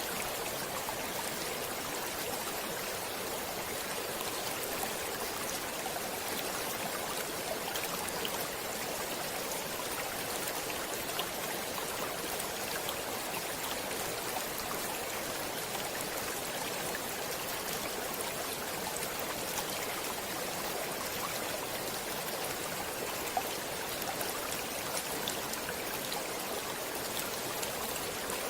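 Stream water flowing steadily, an even rushing hiss with small splashes and drips scattered through it.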